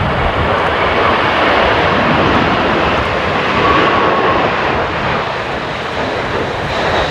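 Jet airliner's engines running loud and steady as it flies past on approach in a strong crosswind, a faint whine rising over the rush near the middle, with wind buffeting the microphone.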